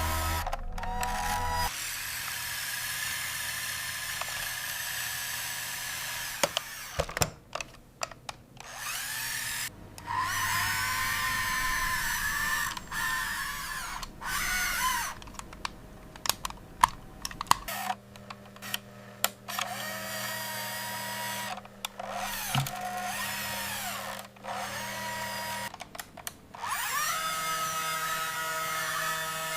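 Small electric motor of a toy construction vehicle whirring in stop-start runs of a few seconds, its pitch rising and falling, with sharp clicks between runs.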